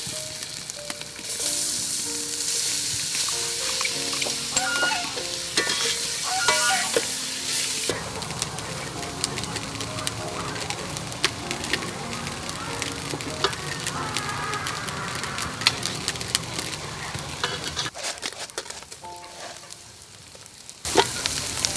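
Khmer pounded spice paste sizzling as it fries in a metal pot, with a metal ladle stirring and clinking against the pot.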